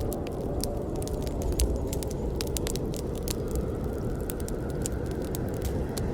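Wood campfire burning: frequent, irregular sharp crackles and pops over a steady low rustle of flames.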